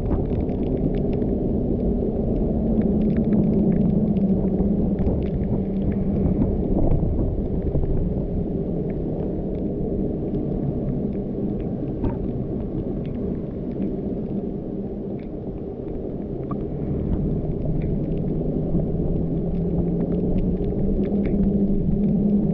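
Car driving on a wet mountain road: a steady low rumble of engine and tyres, its pitch swelling slightly near the start and again near the end, with scattered light ticks.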